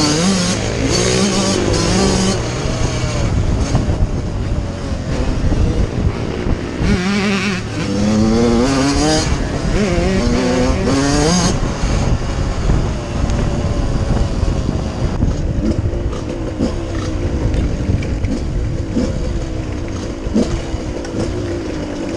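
Suzuki RM85 two-stroke 85 cc motocross engine revving hard and climbing through the gears in repeated rising runs near the start and again from about seven to eleven seconds in, then running at lower revs with a rougher, noisier sound.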